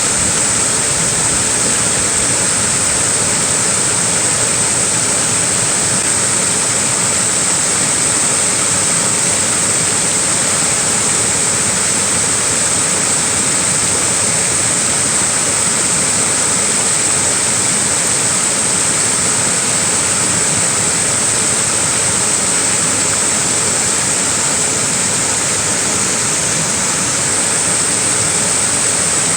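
Small waterfall splashing steadily, an even rush of falling water with no breaks.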